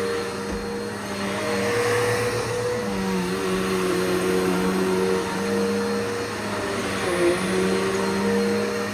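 Bissell Powerforce Bagless upright vacuum cleaner running steadily on carpet. Its motor hum dips and rises slightly in pitch every second or two.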